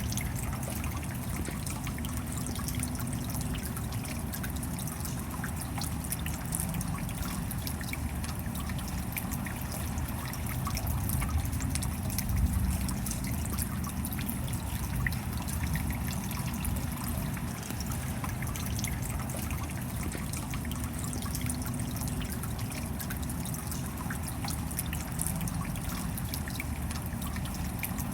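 Steady rain, a continuous hiss of water dotted with many small drop hits, with trickling and dripping water running through it.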